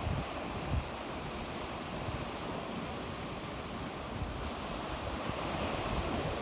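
Sea waves washing onto the shore in a continuous surf, with low gusts of wind buffeting the microphone.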